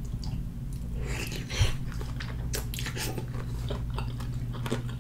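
A person chewing a mouthful of food with wet smacking and scattered sharp mouth clicks, over a steady low hum.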